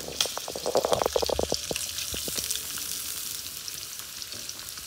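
Chicken and sliced onions sizzling steadily in a hot oiled wok. During the first two seconds or so there is a quick run of clicks and taps as sliced red pepper strips are tipped into the pan; after that only the even frying hiss remains.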